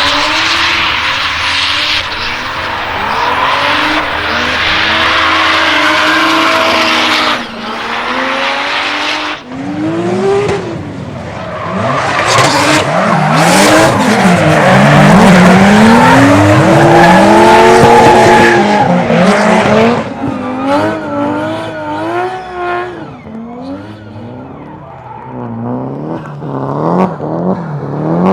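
Toyota Supra MK4's 2JZ straight-six revving up and down through a drift, with tyres squealing loudly for long stretches. In the last third the revs swing up and down quickly, with a few sharp cracks.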